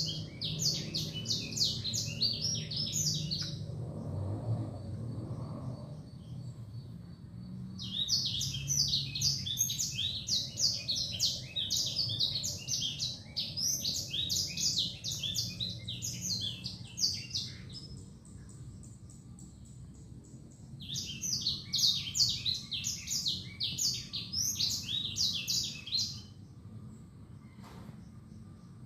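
A caged songbird that Indonesian bird keepers call a 'sanger' singing in three bouts of rapid, chattering high notes, with short pauses between them.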